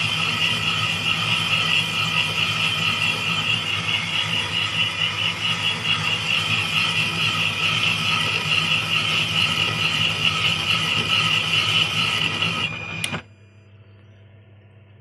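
Metal lathe running while a single-point tool cuts a 1.5 mm pitch thread in a KAMAZ hydraulic cylinder part. It gives a steady high whine with a fast flutter, then stops suddenly with a click about 13 seconds in.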